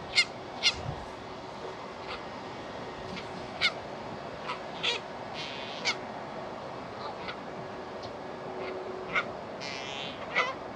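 Park birds, crows or waterfowl, giving short, sharp calls at irregular intervals, about seven in all, over a steady background hum.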